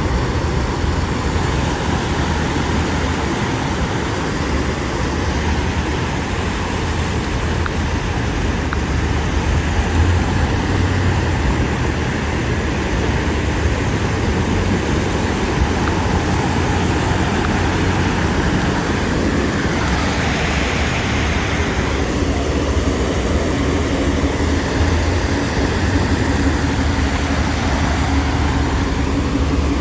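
Steady road traffic noise on a rain-soaked, flooded street: a low rumble with an even hiss, and a vehicle passing more loudly about twenty seconds in.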